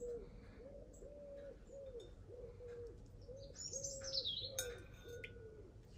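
A bird cooing in a run of about ten short, low, even notes. A higher falling chirp from another bird comes about four seconds in.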